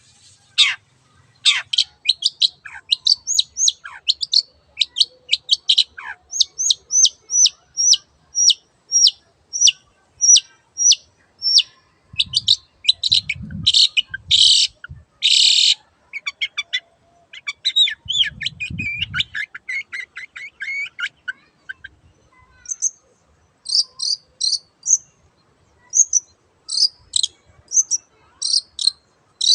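Long-tailed shrike singing: a string of short, sharp repeated notes, a few downward-sliding calls, and fast chattering trills in the middle.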